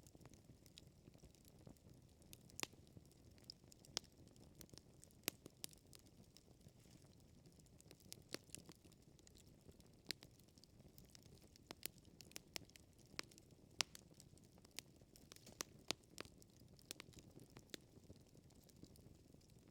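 Campfire burning, with irregular crackles and sharp pops over a low steady rumble.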